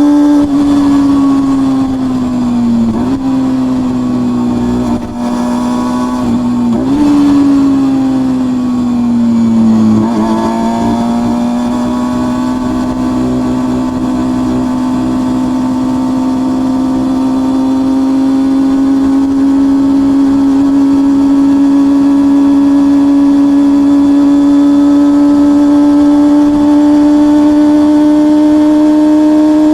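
Honda CBR250RR MC22's inline-four engine and exhaust running under way: the revs fall over the first ten seconds, broken by two brief jumps up like downshifts, then climb slowly and steadily as the bike pulls in one gear.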